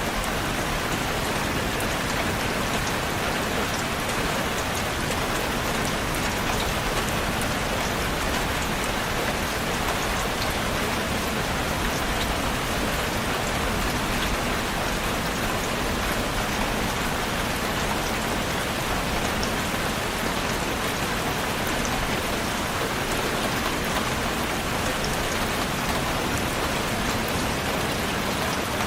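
Steady rain falling on a surface, an even hiss with many fine drop ticks and no let-up.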